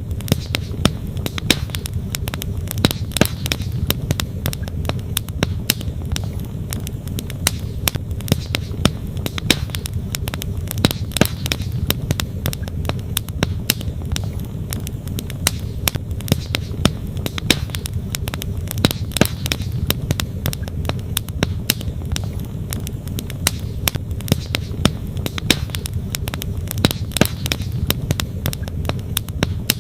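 Wood campfire crackling, with frequent sharp pops and snaps, over the steady low rush of a flowing creek.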